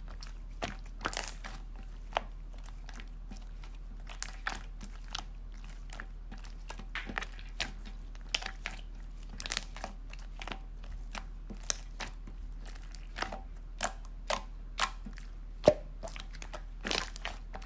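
Slime being squeezed and poked by hand, giving irregular sharp clicking and crackling pops, roughly one or two a second, over a low steady hum.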